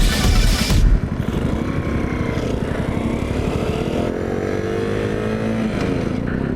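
Background music cuts off about a second in, giving way to a small single-cylinder monkey bike engine running under way. Its pitch climbs steadily as the bike accelerates, then drops near the end.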